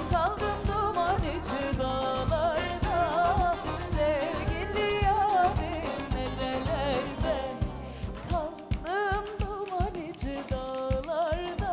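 A woman singing a Turkish folk song with a wavering, ornamented melody over instrumental accompaniment with a steady beat.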